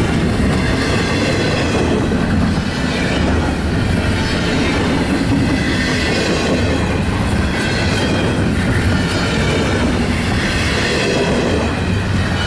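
Railroad cars rolling steadily past at close range, with a faint high-pitched wheel squeal over the rumble.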